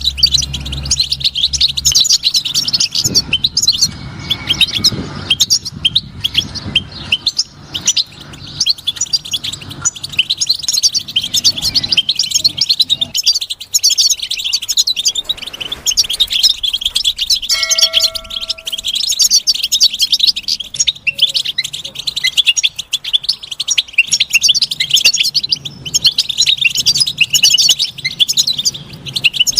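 European goldfinch singing: a continuous, rapid, high twittering song of quick chirps and trills. A short ringing, bell-like tone sounds once, a little past halfway.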